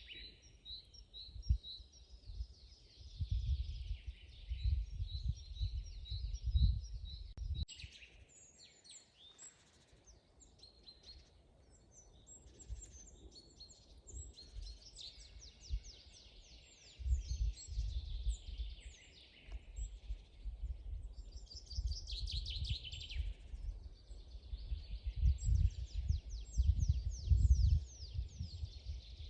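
Several songbirds singing and chirping, with quick repeated notes and trills. A low rumble comes and goes in gusts underneath, strongest a few seconds in and again through the second half.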